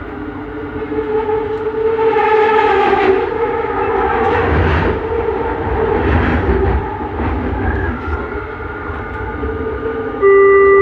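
Inside a Bombardier Innovia Metro 300 automated train under way: the linear-motor propulsion hums in several tones that shift in pitch, over rumble from the running gear that swells in the middle. Near the end a loud multi-tone chime sounds, the lead-in to the next-station announcement.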